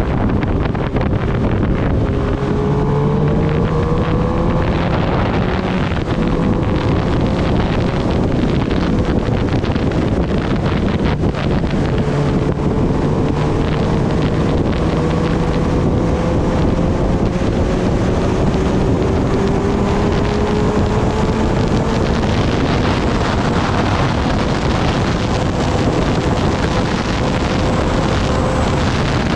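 Kawasaki Ninja ZX-10R's inline-four engine accelerating in gear. Its pitch climbs slowly for several seconds at a time and drops back at each upshift, under heavy wind noise on the microphone.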